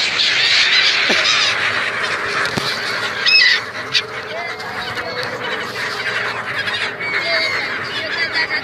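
A large flock of migratory birds, the 'Siberian birds' of the Sangam, calling all at once in a dense chorus of overlapping cries, with one louder, sharper call about three seconds in.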